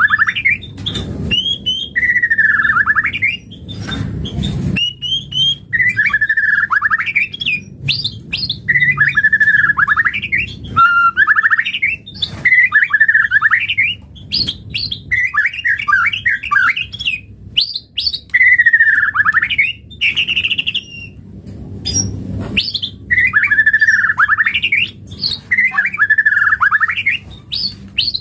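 White-rumped shama (murai batu) singing loud, repeated song phrases, one every couple of seconds: each is a few high notes and then a fast, falling warble. A few low rumbles sound under the song near the start and again about two-thirds of the way through.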